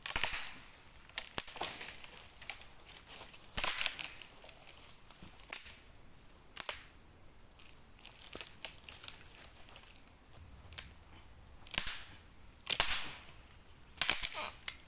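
Steady high-pitched chirring of forest insects, with sharp snaps and crunches every few seconds from footsteps breaking twigs on the forest floor.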